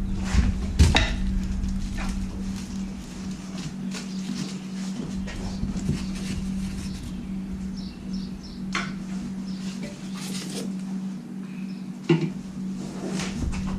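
Scattered knocks, clicks and clatter from handling the packaging and parts while unboxing a jointer, a few louder knocks near the start and about 12 seconds in, over a steady low hum.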